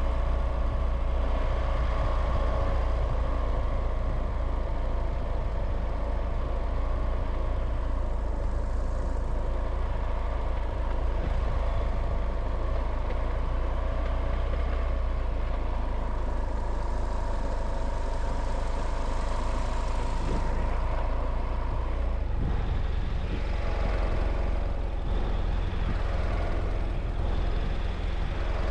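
Vehicle engine and road noise while driving, a steady low rumble with a faint whine that stops and changes tone about 22 seconds in.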